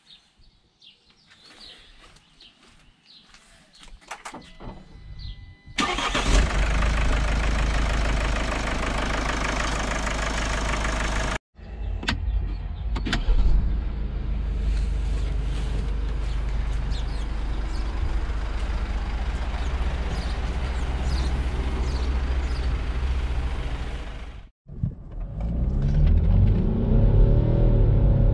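Mercedes GLK 250 CDI's four-cylinder turbodiesel starting from completely cold about six seconds in and idling. After a cut, the warm engine idles quietly. Near the end it revs up as the car accelerates through its automatic gearbox.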